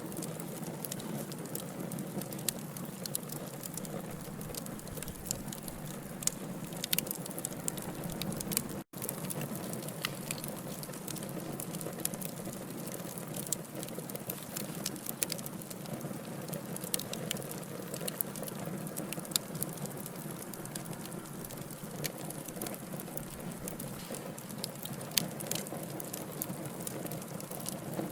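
Wood logs burning in a fire, crackling and popping irregularly over a steady hiss. The sound cuts out for a split second about nine seconds in.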